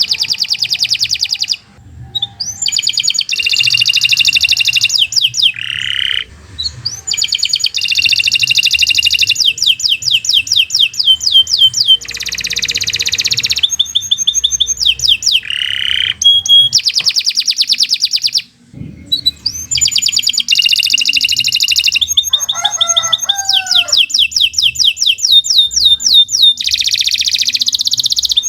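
Canary singing a long, fast song of rapid repeated trills and rolls, with only brief pauses for breath.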